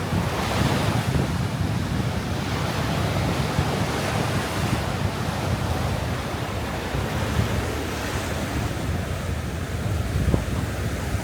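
Sea surf washing onto a sandy beach in a steady wash, with wind buffeting the microphone.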